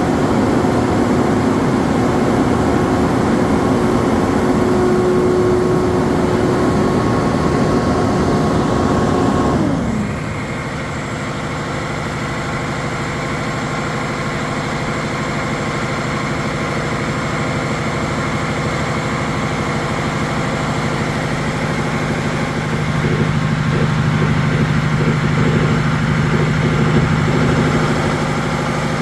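Crane truck engine running at raised revs, then winding down to idle about ten seconds in and idling steadily, picking up slightly near the end.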